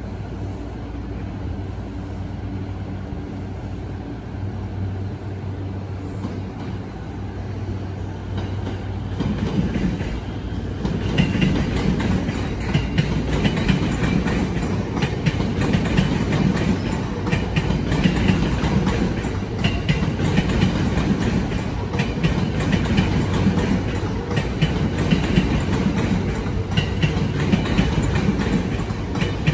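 A stopped E235 series electric train hums steadily with its onboard equipment running. About nine seconds in, a much louder rail rumble with rattling wheel clatter rises and keeps going: a train running on another track, since the standing train does not move.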